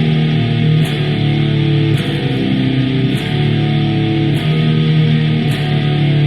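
Electric guitar tuned to drop C playing a riff in a dense, continuous low register, with a short sharp tick about once a second.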